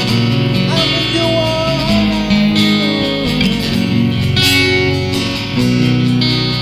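Acoustic guitar strummed through an instrumental passage of a song, with a sliding melody line over the chords in the first half.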